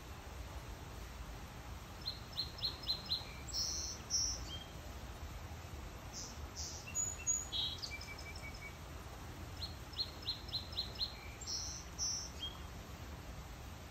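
A songbird singing outdoors. Its phrase is a quick run of about five high notes followed by a few higher chirps, and it sings the phrase twice, with scattered single chirps between.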